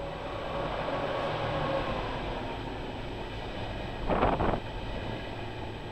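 Thalys high-speed electric train running past on the platform track, a steady rushing rumble with a faint whine that drifts down in pitch as the power car goes by. About four seconds in there is a short, louder burst of noise.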